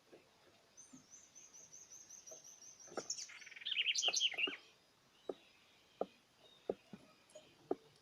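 Small songbird calling: a quick high trill, then a loud burst of chirps about three seconds in, with sharp clicks or taps scattered throughout.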